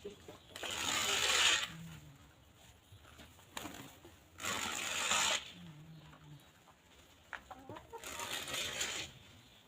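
Free-range hens: a couple of short, low clucks and scattered small pecking taps, broken by three bursts of rustling about a second each, roughly four seconds apart.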